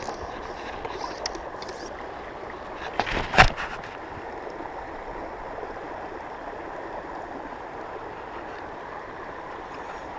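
Steady rush of water from a mountain stream. A brief loud knock about three seconds in.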